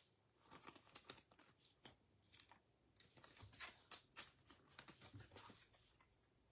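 Faint scattered clicks and rustles of trading cards and their wrappers being handled and shuffled.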